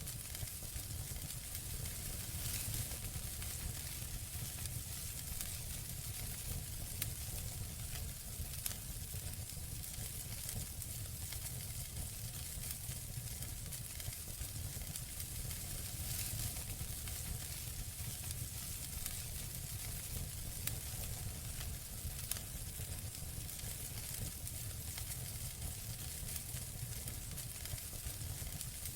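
Campfire burning steadily, with a constant soft hiss and frequent small crackles and pops of burning wood, plus a low rumble from the flames.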